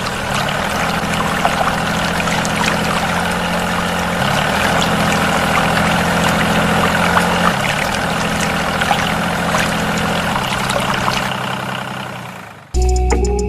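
A small electric motor humming steadily while liquid pours and splashes, in the manner of a homemade mini pump or press. It cuts off suddenly near the end.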